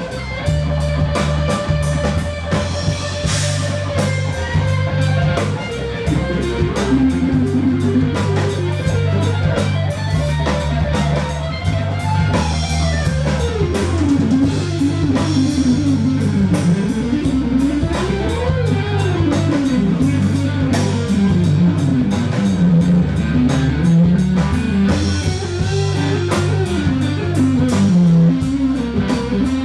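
Live rock band playing: an electric guitar carries the lead line over bass and drum kit, holding one note early on, then sliding down and back up in long runs. Cymbals tick steadily throughout.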